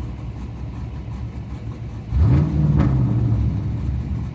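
Car engine running low, then revving up about two seconds in: the pitch climbs quickly, holds, and eases back down near the end, with a short sharp click in the middle of the rev.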